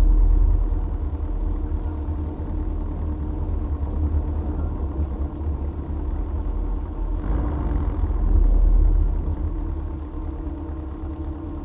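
Air-cooled VW flat-four engine running under way with a heavy, steady low rumble, swelling a little about seven seconds in.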